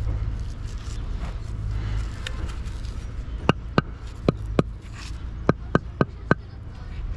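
A series of about eight sharp knocks in three seconds, starting about halfway through, after a low rumble in the first two seconds.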